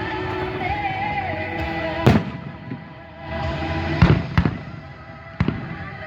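Fireworks going off: four sharp bangs, the first about two seconds in and three more close together in the second half, over the rumble and crackle of the display.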